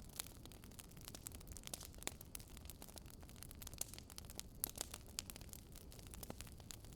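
Wood fire crackling: irregular sharp pops and snaps, several a second, over a soft low hiss.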